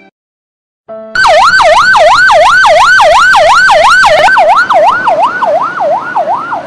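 Emergency vehicle siren in a fast up-and-down yelp, the pitch rising and falling about three times a second. It starts suddenly about a second in, after a short silence, and is very loud.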